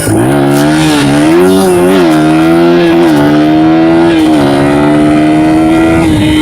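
Dirt bike engine revving up as the bike pulls away, wavering briefly, then held at a steady speed while riding.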